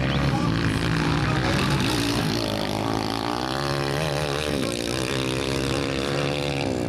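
Motocross dirt bikes racing, their engines revving, the pitch rising and falling repeatedly as the riders work the throttle and shift gears.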